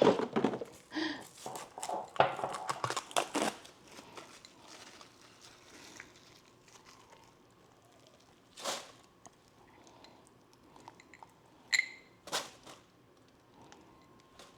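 Plastic food containers and packaging crinkling and clicking as they are handled, dense for the first three and a half seconds, then a few separate knocks and a short squeak.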